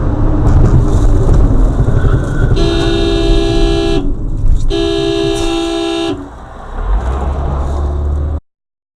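Vehicle horn sounding two long blasts, each about a second and a half, over steady road and engine noise heard from a dashcam. The sound cuts off suddenly near the end.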